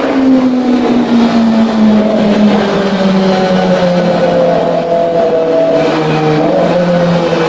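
Kawasaki ZX25R's inline-four engine running through an aftermarket exhaust, its note falling steadily as the revs drop, with a small step down near the end.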